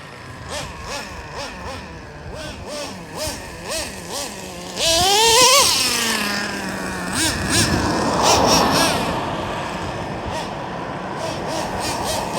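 Nitro engine of a Traxxas Revo RC monster truck running under throttle, its pitch rising and falling in short blips, then jumping to a louder rising rev about five seconds in and staying loud for a few seconds.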